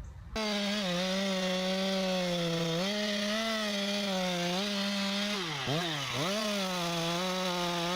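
Two-stroke chainsaw running at high revs, cutting into wood, its pitch sagging slightly under load; a little before six seconds in the revs drop sharply twice and climb back. It starts abruptly about half a second in.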